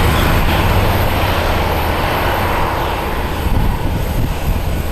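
Jet airliner engines running loudly as the aircraft moves past, the sound swelling and then slowly easing off toward the end.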